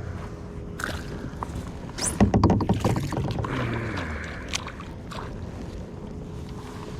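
Knocks, clicks and water splashing in and around a kayak as a small pike is brought in and handled, loudest about two seconds in.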